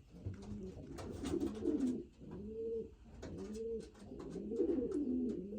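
Several racing pigeon cocks cooing in their loft, one low arching coo after another and overlapping. The cocks have each taken a nest box ready for breeding, with faint clicks among the calls.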